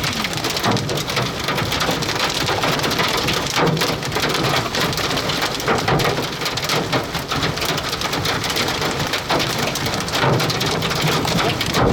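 Heavy rain and hail pelting a vehicle, a dense, steady drumming with many sharp hits.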